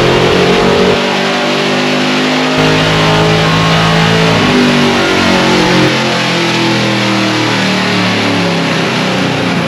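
The 1961 Ford gasser's V8 running hard on the chassis dyno rollers during a power pull, loud and steady with the pitch shifting a few times. Afterwards the crew reads the run as way lean, about 15 to 16 air-fuel against a 12.5 target.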